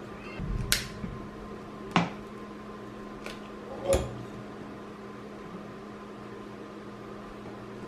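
A kitchen appliance running with a steady hum, with four sharp clicks over the first few seconds.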